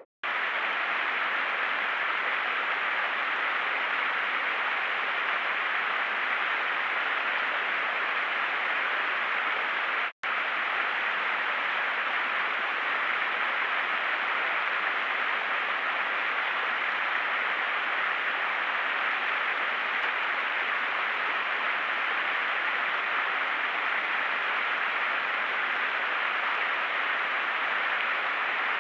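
Steady hiss of a trail camera's microphone, broken by a split-second gap about ten seconds in.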